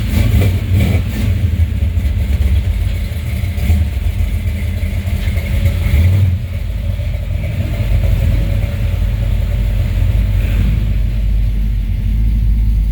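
Car engine running as the car is driven, heard with a heavy low rumble; it pulls harder for about the first six seconds, then drops off suddenly and settles to a steadier, lighter run.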